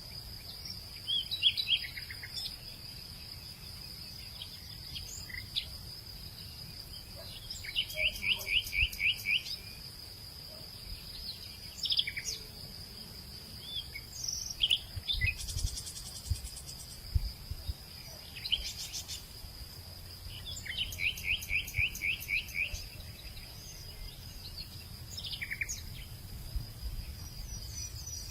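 Birds calling over a steady high-pitched insect drone. There are scattered short chirps, and twice a quick run of about a dozen repeated notes, about 8 seconds in and again about 20 seconds in.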